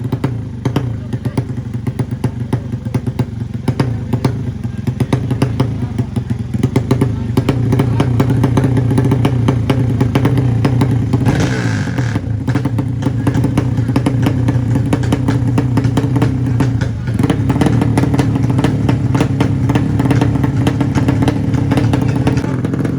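Drag-racing underbone motorcycle engines with open exhausts running loud and revving, a steady drone with rapid crackling pulses that grows louder about seven seconds in. A short higher-pitched hiss comes in about eleven seconds in.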